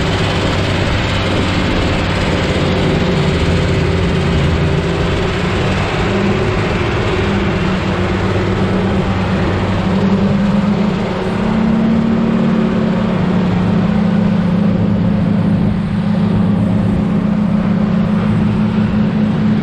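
Log truck's diesel engine running steadily while under way. About eleven seconds in the level dips briefly, then the engine note settles slightly higher.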